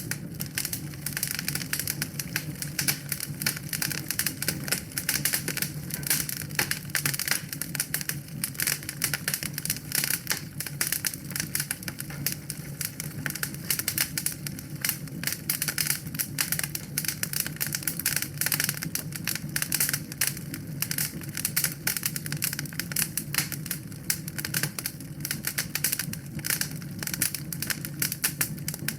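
Wood fire in a fireplace crackling, with dense, irregular small pops and snaps over a steady low rumble of the flames.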